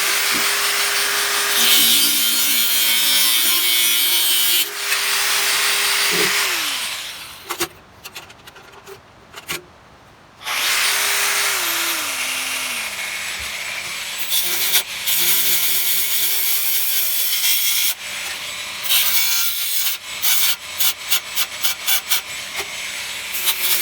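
Electric power tool cutting metal, its motor running in long stretches, stopping and winding down partway through, then starting again. Near the end it runs in quick short bursts, a few a second.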